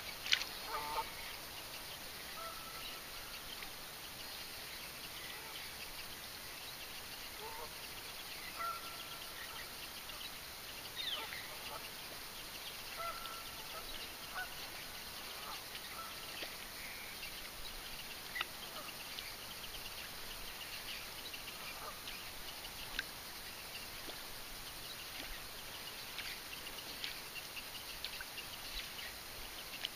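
Faint, short bird calls here and there over a steady low hiss, with a few soft clicks.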